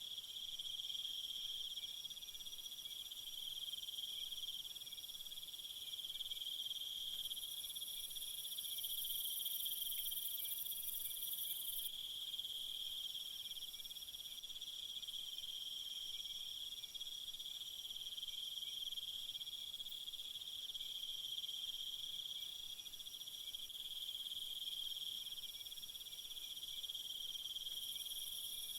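Steady insect chorus trilling at a few fixed pitches, with a higher, hissier layer that swells about eight seconds in and again near the end.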